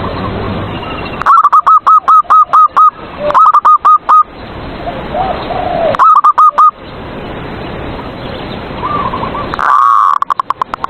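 Zebra dove (perkutut) song: four runs of quick, loud, repeated staccato coo notes, with fainter dove coos and a steady hiss between the runs.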